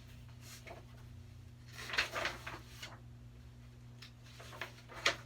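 Handling of a picture book: a short rustle about two seconds in and a sharp click or tap near the end, over a steady low electrical hum.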